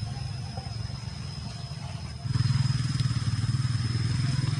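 Small engine running steadily close by, growing louder about halfway through.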